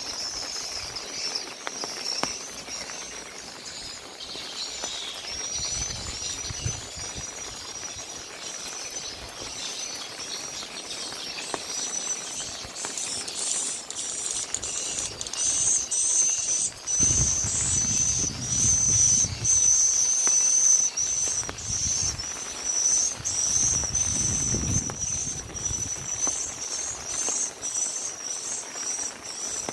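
Insects trilling in a high, pulsing chorus over a faint hiss of rain, with chirping bird calls in the first half. A low rumble rises twice in the second half.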